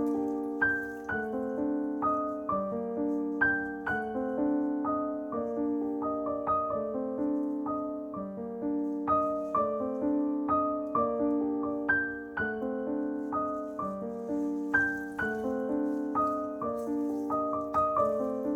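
Background piano music: a gentle, flowing melody with notes struck about twice a second over a low repeating accompaniment.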